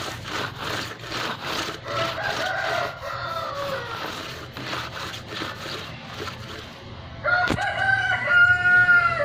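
A rooster crowing twice: a weaker crow a couple of seconds in and a louder, longer one about seven seconds in. Underneath runs a repeated scraping noise, with a sharp click just as the second crow begins.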